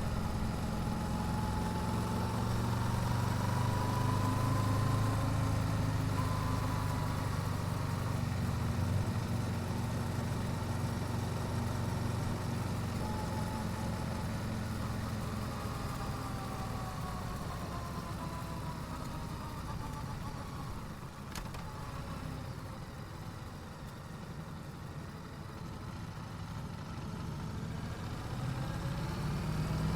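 Yamaha YZF-R7's parallel-twin engine with its stock exhaust running steadily, easing off about two-thirds of the way through and picking up again near the end.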